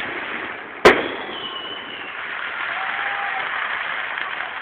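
A firework shell bursting once with a sharp bang about a second in, followed by a steady noisy wash from the show.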